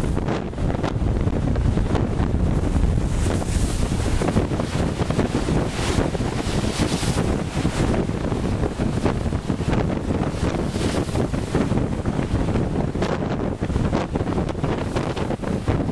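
Blizzard wind gusting at up to 100-110 km/h, buffeting the microphone in a continuous low rumble, with hissing gusts swelling several times.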